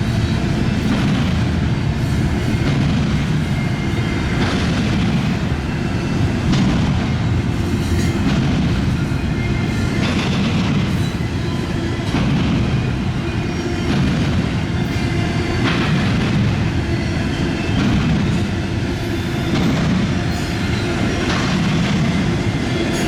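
A long intermodal freight train's cars rolling past: a steady loud rumble of wheels on rails, with a sharp wheel clack every second or two.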